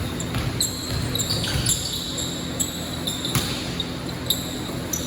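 Basketball game sounds: a ball bouncing on the court and sneakers squeaking in short high chirps, over a steady background murmur.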